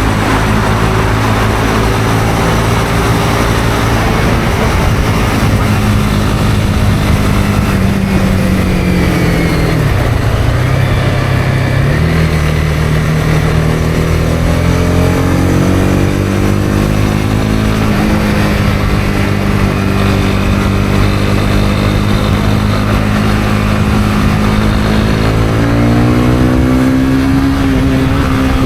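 Honda CB250R single-cylinder engine pulling at a steady cruise under a constant rush of wind and road noise. Its revs fall away about ten seconds in and build back up two seconds later, then rise again near the end.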